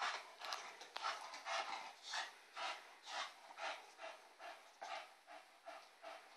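Olde English Bulldogge making a rhythmic run of short, breathy vocal noises, about two a second, slowly growing fainter.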